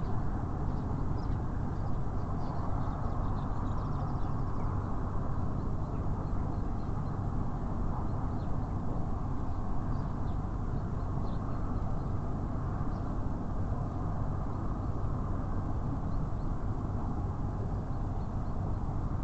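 Steady low rumble of city traffic with a hum in it. Faint, brief chirps and ticks of small birds at a feeder are scattered over it.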